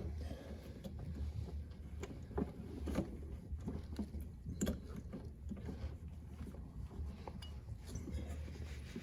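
Small clicks and taps of hands fitting a starter relay and its wire connectors onto a chest-freezer compressor, a few sharper knocks a few seconds in, over a steady low rumble.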